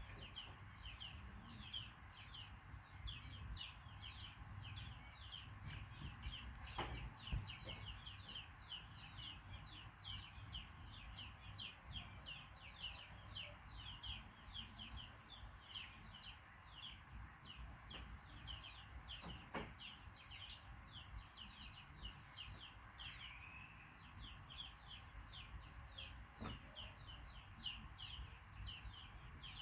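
Small birds peeping continuously: short, high, downward-sliding peeps, about three a second. There are a few soft knocks and a low rumble underneath.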